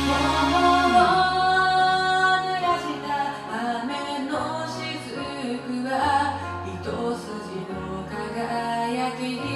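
Karaoke backing track of a pop-rock ballad with a female voice singing over it, including a long held note about a second in, above a steady bass line.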